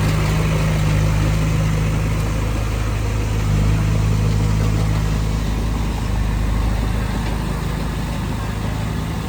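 Diesel engine of a piece of heavy earthmoving equipment running steadily at low revs, a deep even hum.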